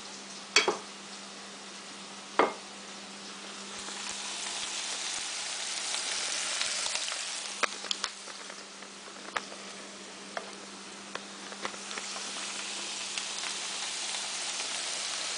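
Hot oil sizzling as potatoes and hush puppies fry in pans, the sizzle swelling from about four seconds in and again near the end, with scattered small pops and clicks. Two sharp knocks in the first few seconds, a spoon against the batter bowl.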